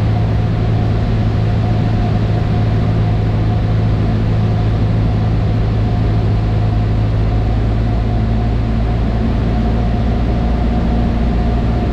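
Cessna 152's four-cylinder Lycoming engine and propeller running at a steady power setting, a loud, even drone with a constant low hum and a fainter steady whine above it.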